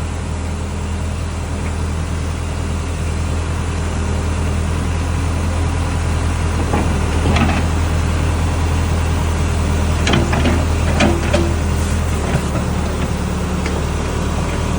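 A large engine running steadily at idle, its note shifting about twelve seconds in, with a few scrapes and knocks around seven and eleven seconds.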